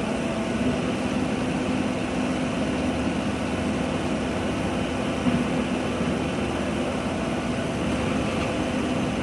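Mini excavator's diesel engine running at a steady speed, with one brief knock about halfway through.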